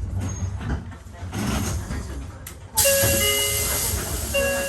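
Hakone Tozan Railway 1000 series mountain train running with a low rumble; nearly three seconds in, a sudden loud hiss starts, with several steady high squealing tones over it.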